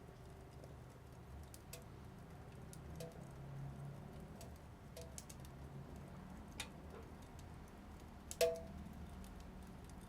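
Wood fire crackling in a tiny metal wood stove: scattered sharp pops and ticks, some with a brief ring, and one louder pop about eight and a half seconds in.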